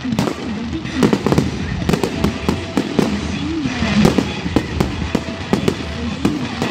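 Aerial fireworks display: a rapid, irregular series of shell bursts and sharp bangs, with the crackle of bursting stars, going on throughout.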